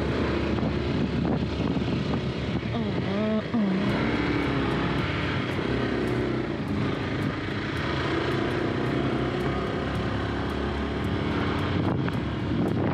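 Motorcycle engine running steadily at road speed, heard from the rider's helmet, its note briefly rising and falling about three seconds in.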